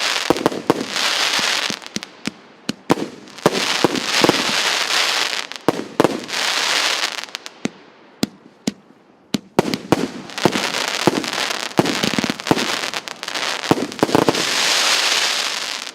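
Consumer fireworks battery Р8272 'Птица-тройка' (2x78 shots) firing a rapid series of sharp bangs. Several times, one-to-two-second bursts of dense crackle swell and fade between the bangs.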